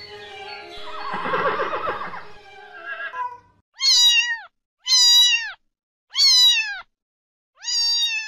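A horse whinnying in the first couple of seconds, followed by a cat meowing four times. The meows are evenly spaced, and each one rises and then falls in pitch.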